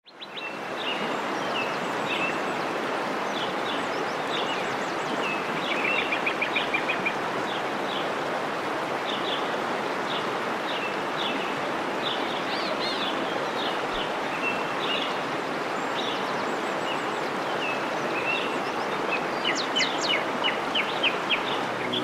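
Birds chirping in short repeated calls and trills over a steady rushing noise. The calls come thicker and louder near the end.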